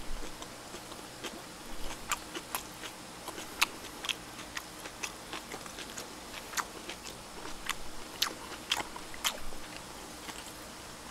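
A person chewing and biting roast duck close to the microphone, mouth sounds coming as scattered, irregular small clicks and crunches.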